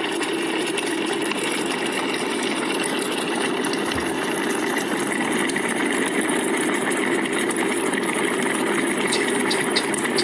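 Electric kettle heating water toward the boil: a steady rushing noise that holds even throughout.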